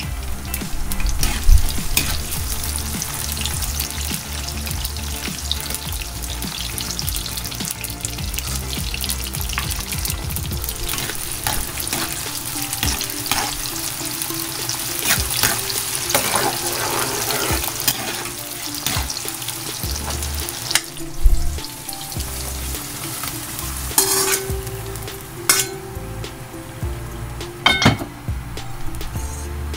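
Food frying in hot oil in a wok, a steady sizzle, with a few sharp knocks of a utensil against the pan in the second half.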